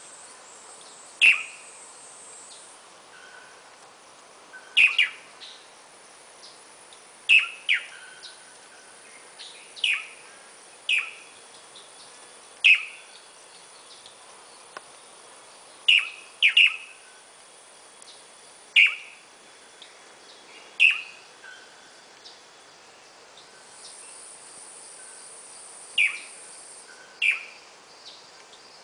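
Blue manakin (tangará) giving short, sharp call notes, about fifteen of them at irregular gaps of one to three seconds, sometimes two in quick succession.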